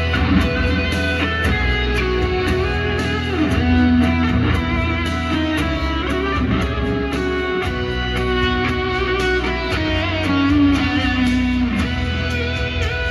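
Band music with no singing: electric guitar over bass and a steady drum beat, an instrumental stretch of a worship song.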